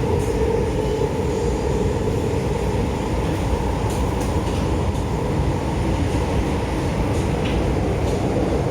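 Taoyuan Airport MRT train running, heard from inside the carriage: a steady rumble with a low hum.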